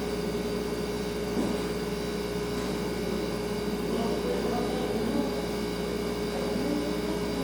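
Refrigerator humming steadily: a constant mid-pitched tone over a low hum.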